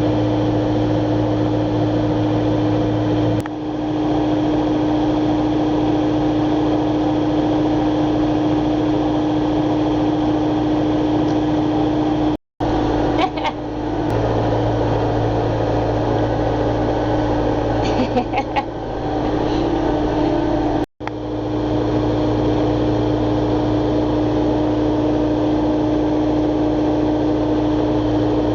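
Engine of a small farm bucket-loader machine running steadily at a constant speed, with a steady low hum. The sound cuts out for an instant twice.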